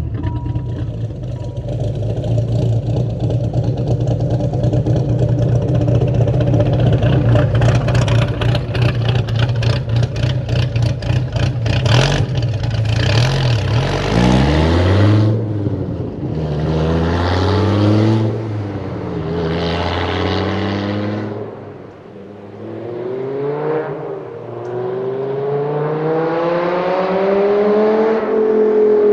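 Dodge Viper GTS 8.0-litre V10 running through headers and straight 4-inch side pipes with no catalytic converters, very loud. It holds a steady deep note, then revs up and down several times, and near the end pulls up in one long rise in pitch.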